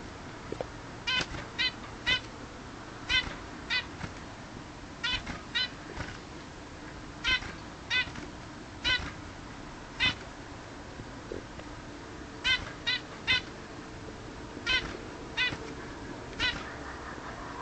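A pet bird giving short, shrill calls over and over, often two or three in quick succession, about twenty in all.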